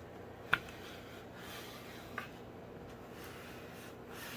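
Faint rubbing as fabric on a hardback book cover is pressed down into the spine gutter, with a sharp light tap about half a second in and a softer one about two seconds in.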